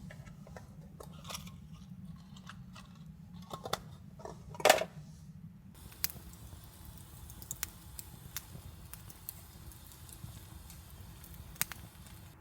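A run of small clicks and knocks, with one sharper, louder knock a little before halfway, then only sparse faint ticks over a low steady hum.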